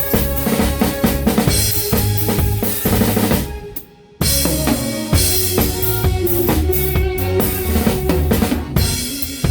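A band playing a song: drum kit with kick and snare driving it under bass and other pitched instruments. About halfway through, everything cuts out together for a brief break, then the band comes straight back in.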